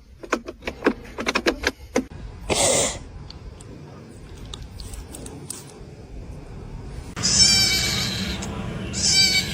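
A run of light clicks and taps, a brief rustle, then a loud, drawn-out animal cry that starts a couple of seconds before the end.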